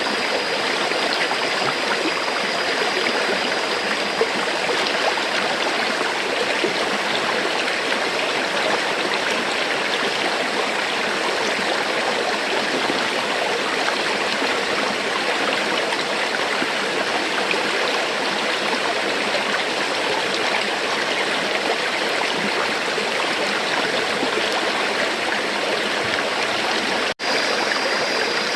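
River water flowing steadily, a continuous rushing and gurgling of a stream. A split-second dropout in the sound comes near the end.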